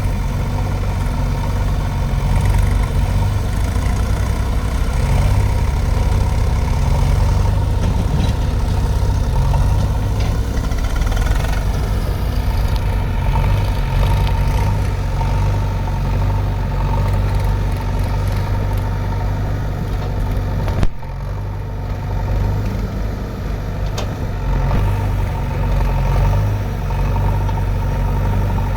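Diesel engine of earthmoving machinery running steadily with a low throb, with one sharp click about two-thirds of the way through.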